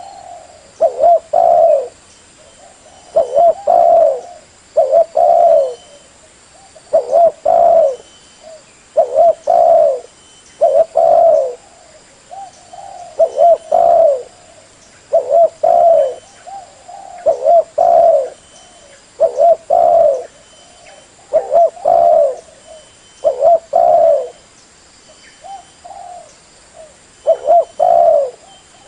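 Spotted dove (tekukur) cooing over and over: short groups of low, mellow coos, a new phrase about every one to two seconds. This is the call used to lure other spotted doves.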